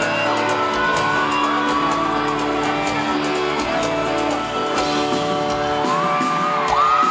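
Live sertanejo band playing an instrumental passage with guitar after the last sung line of a song, with audience members shouting. About six seconds in, high screams and whoops from the crowd rise over the music.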